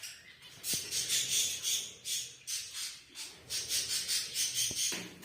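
Small birds chirping in a rapid, rattling chatter of short, harsh notes, several a second, with two faint clicks.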